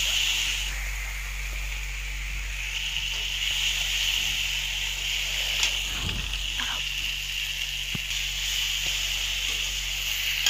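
Onions and ground spice pastes sizzling steadily in hot oil in a kadai while a flat spatula stirs them, with a few light knocks of the spatula. This is the stage of frying the masala paste.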